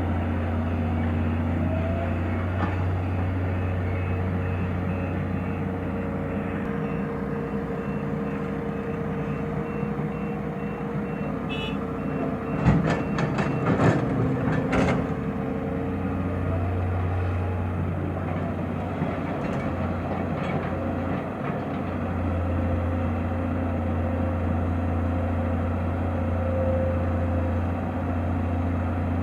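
Heavy diesel engine of an excavator running steadily, with a reversing alarm beeping over the first half and a short run of loud metallic clanks about halfway through.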